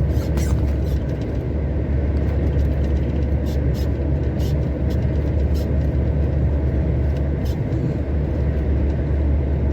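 Heavy truck's cab on the road: a steady low engine drone and road noise, with a few light clicks or rattles scattered through it.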